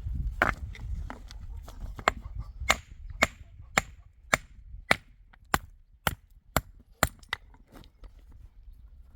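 A series of sharp, evenly spaced strikes of a hand tool, about two a second, growing weaker near the end, after a couple of seconds of low rumbling.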